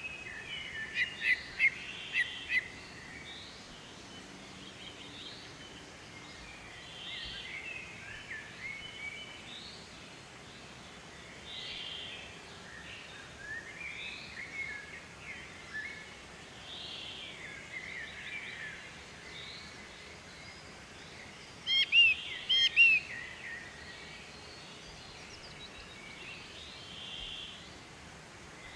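Wild birds calling, with short chirps throughout and louder runs of quick chirps about a second in and again around twenty-two seconds in, over a steady outdoor background hiss.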